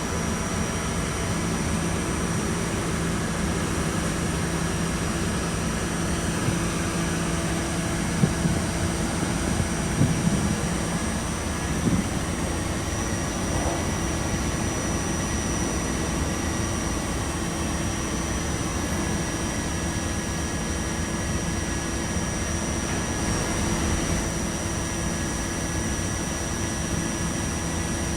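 Steady rumble and hum inside an R68A subway car, with a few knocks about a third of the way in.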